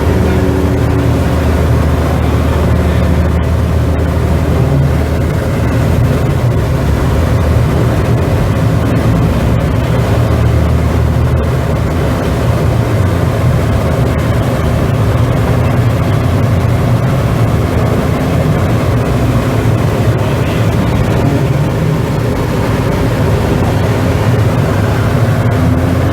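Car engine running steadily, a continuous low drone that holds level throughout.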